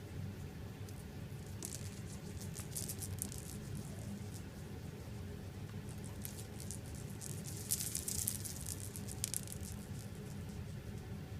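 A cat playing, making bouts of quick, scratchy pattering and scrabbling, twice, over a steady low hum.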